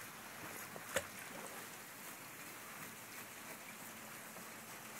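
Faint steady wash of seawater, with one short sharp knock or splash about a second in.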